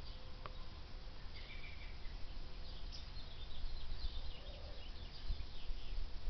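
Small birds chirping in quick, short high calls, busiest in the middle of the stretch, over a steady low rumble.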